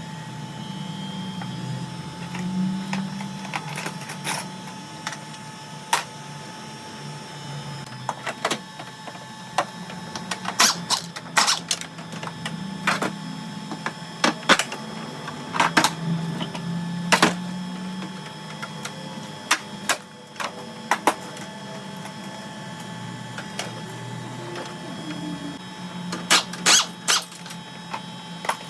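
Irregular sharp metallic clicks and clanks of tools and parts being worked during a car teardown, some in quick clusters, over a steady low hum.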